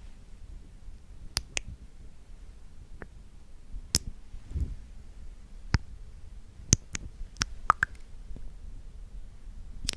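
Close-miked ASMR mouth sounds: scattered wet clicks and smacks at an uneven pace, a few of them bunched together past the middle. A brief low rubbing sound about four and a half seconds in.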